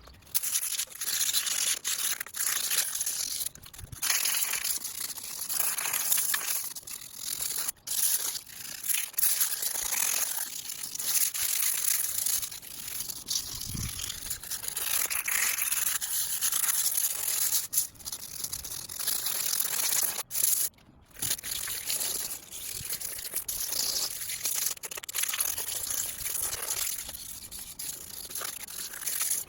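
Scrubbing of a stainless steel Snow Peak fire pit during cleaning: a continuous scratchy scrubbing with brief pauses around 4, 8, 18 and 21 seconds in.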